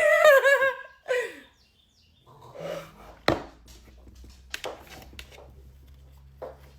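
A woman's voice makes a brief, high, wavering wordless sound in the first second, then a shorter falling one. After that come quieter handling noises with a few sharp clicks over a low hum.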